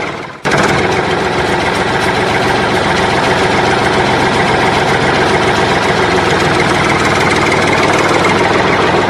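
Steady engine-like running sound, as of a diesel machine idling, with a brief dropout just after the start before it resumes unchanged.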